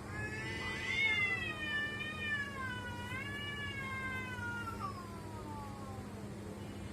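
Domestic cat giving one long, drawn-out yowl that rises at the start, wavers up and down, then slides down in pitch and fades about six seconds in.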